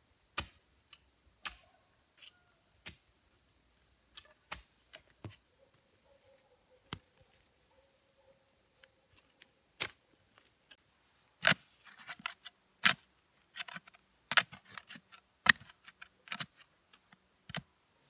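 Irregular sharp clicks and knocks, sparse at first, then coming thicker and louder in the second half.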